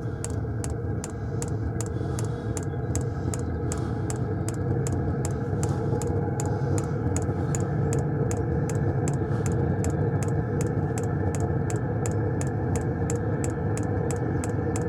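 Diesel heater fuel dosing pump clicking steadily, about three clicks a second, as it primes diesel through a newly fitted fuel line, over a steady motor hum.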